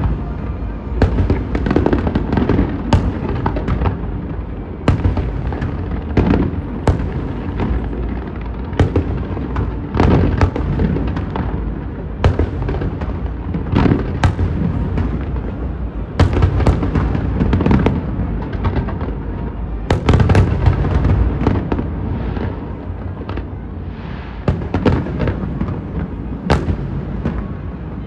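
Fireworks display: a continuous run of sharp bangs, often one or two a second, over a steady rumble of further bursts.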